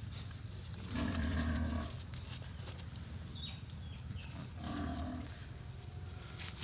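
Animal calls: two drawn-out pitched calls, one about a second in and another near five seconds, with a faint short high call between them.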